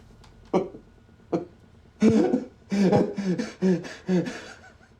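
A person's voice making short, repeated sounds that are not words, about twice a second for a couple of seconds, after a few sharp clicks.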